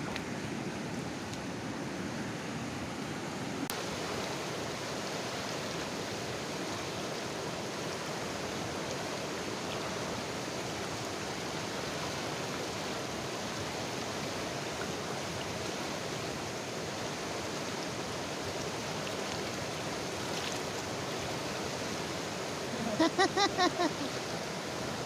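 Fast river water rushing steadily. Near the end comes a brief, louder pitched call in four or five quick pulses.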